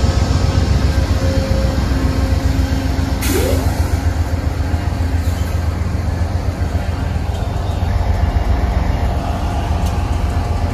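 Train running with a steady low rumble, with a short hiss of released air about three seconds in.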